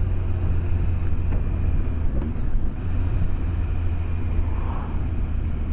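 BMW K1200S inline-four engine running steadily on the road with wind rush, a heavy, even low drone heard through a microphone inside the rider's helmet.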